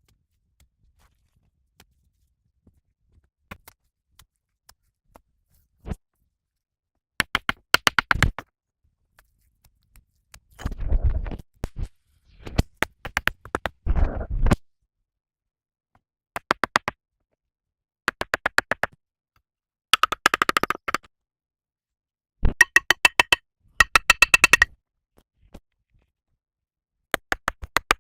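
Short bursts of rapid clicking and scraping in runs of about a second each, separated by pauses. The scraping is heavier and fuller in the middle.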